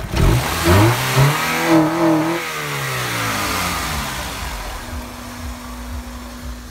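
1999 Honda Accord's F23A1 2.3-litre four-cylinder engine, fitted with an aftermarket cold air intake, revved by hand at the throttle body: the revs shoot up at once, surge a few times for about two seconds, then fall back and settle to a steady idle.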